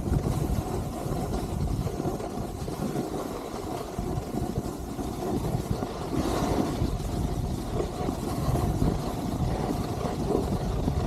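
Skis sliding and scraping on snow during a downhill run, with wind rumbling on the microphone; a brief louder, hissier scrape about six seconds in.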